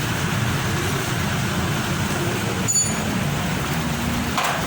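Toyota V8 engine idling steadily after an oil and filter change. A single sharp metallic click is heard a little past halfway, and a short higher sound comes near the end.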